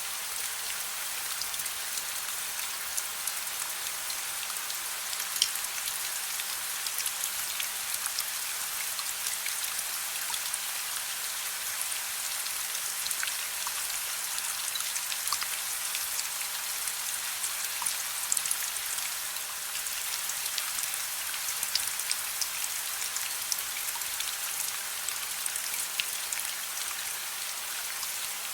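Steady soft rain: an even hiss with many small drop ticks scattered through it, a few of them sharper.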